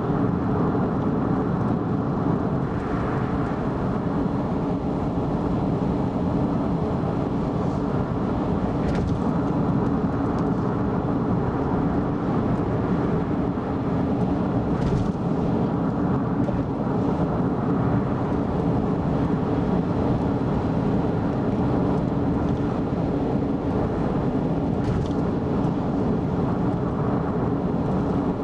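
Steady tyre and engine noise of a car driving along an expressway, an even low hum with a few faint ticks.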